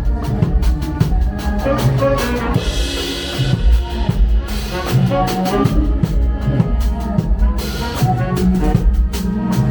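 Band music with a drum kit keeping a steady beat, bass drum and snare over sustained bass and melody.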